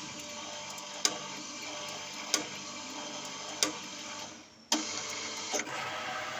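1700F3U CNC lathe running while turning a part: a steady machine hum with sharp clicks about every second and a quarter. About four seconds in, the sound dips briefly, then comes back with a sharp click.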